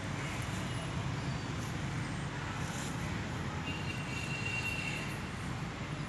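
Steady low background rumble, like distant road traffic, with a faint short high tone a little past halfway.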